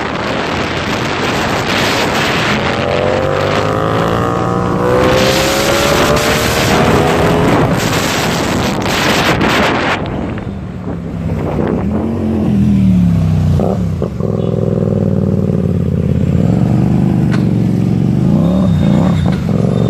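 Hyosung GTR 250's V-twin engine through an SC Project aftermarket exhaust, accelerating under heavy wind rush. About halfway the wind noise drops away and the engine runs at lower speed with its revs rising and falling, blipped up sharply twice.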